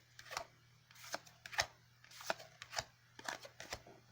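Yu-Gi-Oh! trading cards being flipped through by hand: an irregular run of short, soft card snaps and slides, about a dozen in a few seconds.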